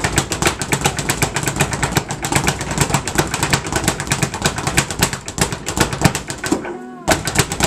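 Speed bag being punched in a fast, continuous rattle of strikes against the rebound board, many hits a second, with a brief break near the end.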